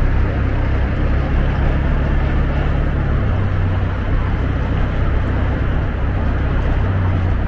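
Motor scooter engine running under a rush of wind on the microphone; the engine note drops to a lower pitch about three seconds in.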